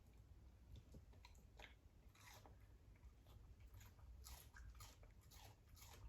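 Faint chewing and crunching of a pet eating a meat treat: irregular small bites and clicks, several a second.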